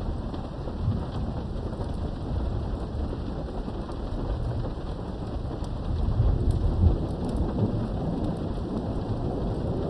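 Steady heavy rain falling, with rolls of distant thunder rumbling low underneath, swelling loudest about six to seven seconds in.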